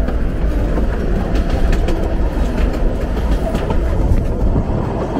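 Narrow-gauge steam train carriage running along the track: a steady rumble of wheels on rail with scattered clicks, heard from inside the carriage at its window.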